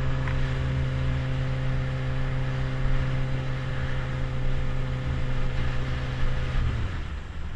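Motorcycle engine running at steady revs over a rush of noise, its note holding one even pitch, then dropping away near the end as the throttle closes.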